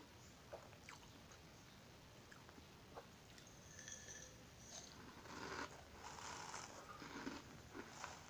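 Faint crunching and chewing of a mouthful of crushed sugar-glazed cracker crumbs, louder from about five seconds in.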